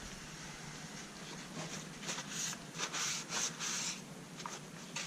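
Faint rubbing of a cotton swab scrubbing carbon fouling off the metal parts of a GSG-16 .22 rifle: a run of short scratchy strokes about two to four seconds in, and a couple more near the end.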